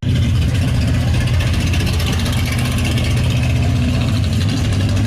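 Car engine running steadily at low revs, a deep even engine note with no clear revving.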